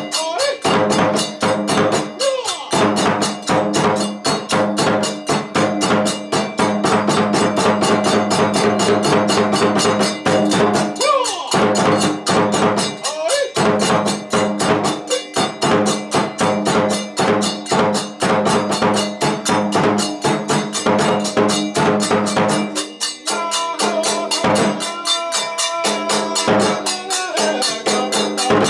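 Kagura music: fast, steady drum and cymbal beats with sustained melodic tones. The low notes drop out about 23 seconds in.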